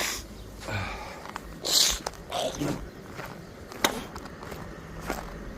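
A man with a chest cold hawking and clearing mucus from his throat in a few short, harsh breathy bursts, the strongest about two seconds in.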